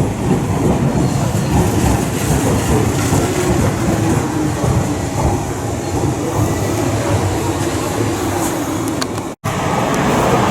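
Electric train running past at a station platform, a steady rumble with wheels clattering over the rail joints. The sound cuts out for an instant about nine seconds in.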